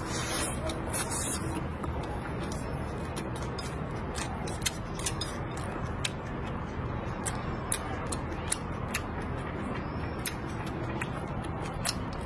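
Close-up chewing of a mouthful of rice with stir-fried minced pork and pickled sour beans: a string of sharp, irregular mouth clicks over a steady low background hum.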